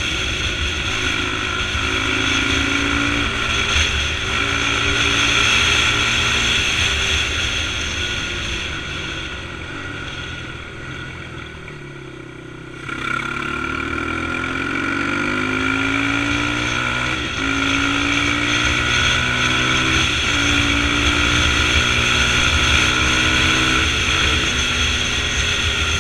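Dirt bike engine running under way, with the pitch climbing and stepping as it goes through the gears. About ten seconds in it eases off, then picks up again and accelerates.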